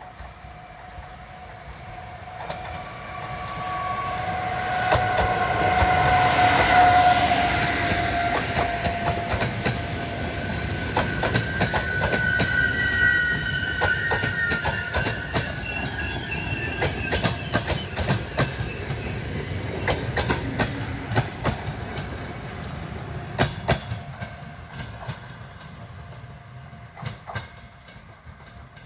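PKP Intercity EU44 Husarz electric locomotive hauling a passenger train past. The rush of the train builds to its loudest as the locomotive goes by about seven seconds in, with several steady whining tones. The carriages' wheels then clack over the rail joints, fading as the train moves away.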